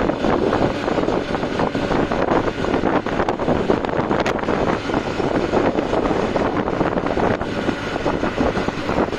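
Steady rushing wind and road noise aboard a moving truck, with wind buffeting the microphone.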